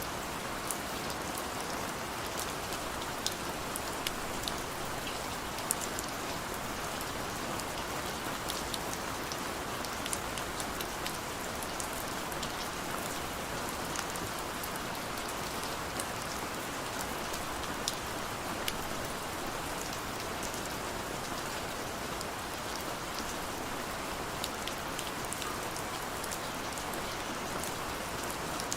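Heavy rain falling steadily: a dense hiss with many sharp drops pattering against a surface.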